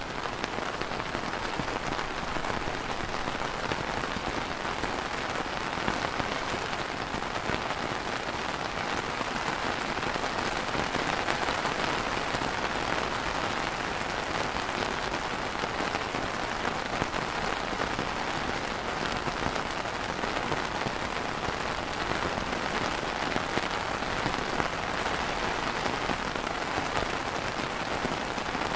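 Steady light rain falling on a clear plastic umbrella canopy, many small drops striking it in a dense, even patter.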